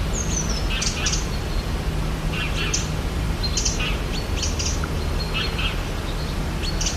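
Several birds calling in a forest soundscape: short, scattered chirps and whistles, with a falling whistle just after the start. Underneath runs a steady low rumble.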